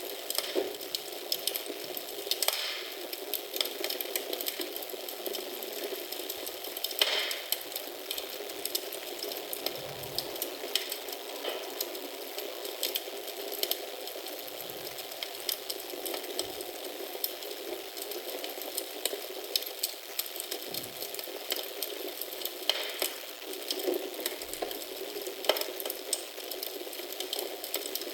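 Wood fire in a fireplace crackling steadily, with a few sharper pops standing out from the constant fine crackle.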